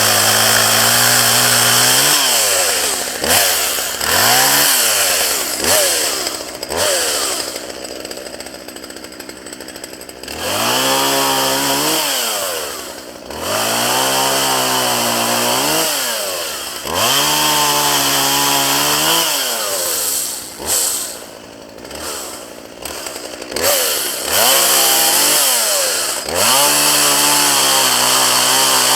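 Two-stroke chainsaw revving to full throttle for two or three seconds at a time and dropping back to idle, over and over, with a few quick blips and short idling spells between, as it cuts up downed branches.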